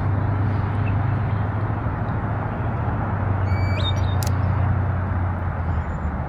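Steady low rumble of outdoor background noise, with one short chirping bird call about three and a half seconds in and a faint click just after.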